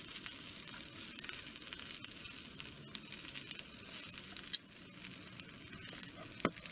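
Yakisoba frying: a steady sizzling hiss with scattered crackles and two sharper clicks, the second near the end. The noodles went into the pan still frozen.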